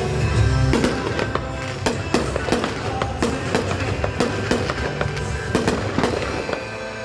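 Fireworks bursting and crackling, many sharp cracks in quick succession, with music playing along.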